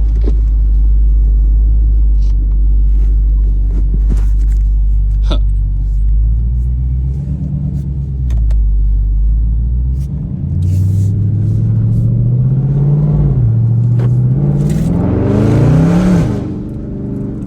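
Dodge Charger Scat Pack's 6.4-litre HEMI V8 with its mid mufflers deleted: a deep exhaust rumble while cruising, then the revs climb twice under acceleration with a shift between them, dropping off near the end as the throttle is lifted.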